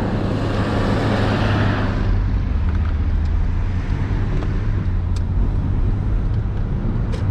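Hyundai Genesis Coupe 3.8 V6 running steadily under way as a low hum, with tyre and road noise. A broad rush of road noise in the first two seconds eases off about two seconds in.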